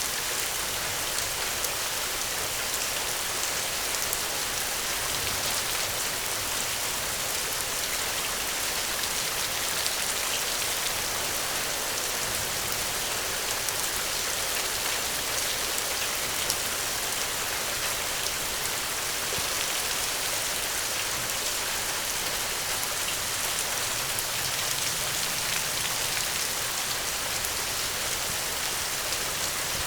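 Steady rain falling, a constant hiss of many fine drops pattering on a surface, with no thunder.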